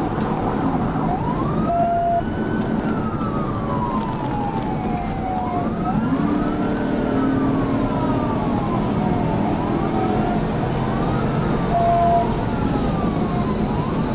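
Police car siren wailing, its pitch rising quickly then falling slowly in cycles of about four seconds, over steady road noise from a pursuit at high speed. Two short beeps sound, about two seconds in and again near the end.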